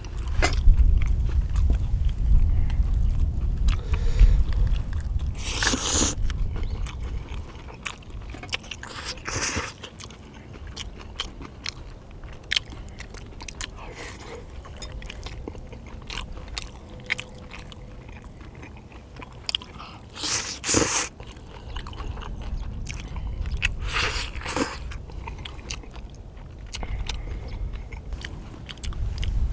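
Close-miked chewing and biting of stir-fried white sundae (Korean sausage) and vegetables. A few sharper, louder mouth noises stand out here and there.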